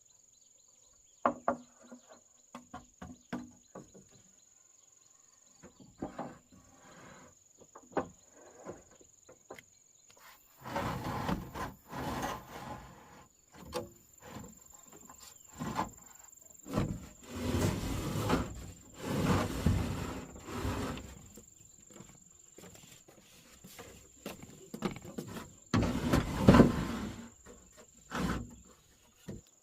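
Hand construction work on the barn's timber: scattered knocks at first, then a series of longer, louder scraping and knocking bursts, over a steady high insect drone.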